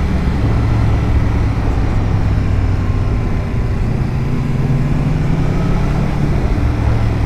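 Motorcycle engine pulling steadily at road speed, its note holding fairly even, with wind rushing over a helmet-mounted camera.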